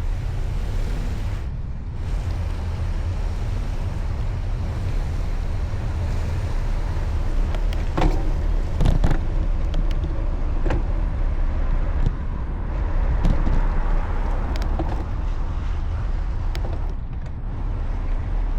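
Steady low rumble of wind and road noise from riding a bicycle, with a few sharp clicks or rattles about halfway through.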